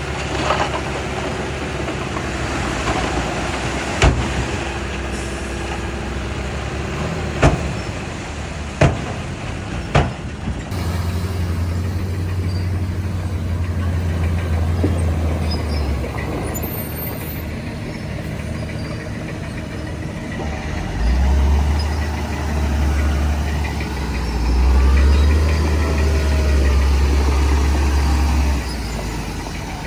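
Heavy diesel construction machinery running, with several sharp metallic clanks in the first third. The deep engine drone swells and holds twice in the second half, as the engine is put under load.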